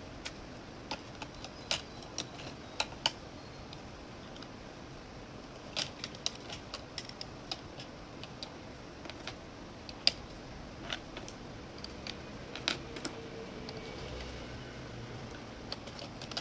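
Miniature plastic toy soda bottles clicking and tapping against each other and the shelves as they are packed into a toy refrigerator: scattered sharp clicks, irregularly spaced, a few louder ones, over a faint steady hiss.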